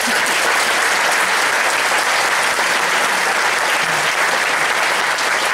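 An audience applauding steadily, a dense run of hand claps, at the end of a contestant's quiz round.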